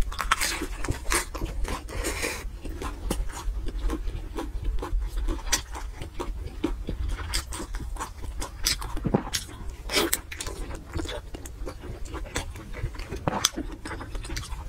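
Close-miked chewing and wet mouth smacks of someone eating fatty braised pork belly and fried bread, with irregular clicks throughout.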